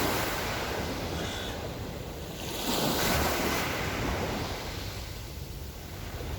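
Small Black Sea waves washing up onto the shore. One surge comes at the start and a bigger one about three seconds in, over a low rumble of wind on the microphone.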